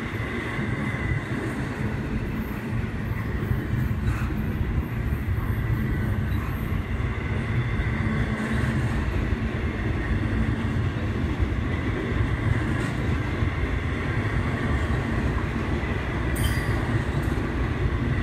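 Intermodal freight train of trailers on flatcars rolling steadily past: a continuous rumble of wheels and cars, with a thin, steady high whine from the wheels over it.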